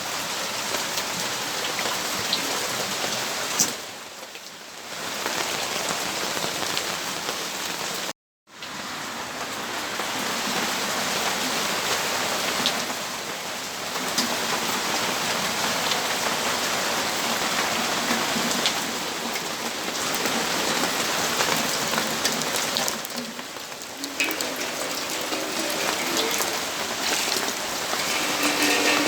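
Rain falling steadily, an even hiss of drops on surfaces. It softens briefly twice and cuts out completely for a split second about eight seconds in.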